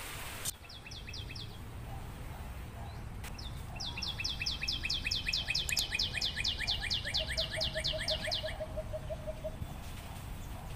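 A songbird singing a fast series of repeated, evenly spaced notes, about seven a second: a short burst about half a second in, then a longer run of about four seconds. A low rumble of wind lies underneath.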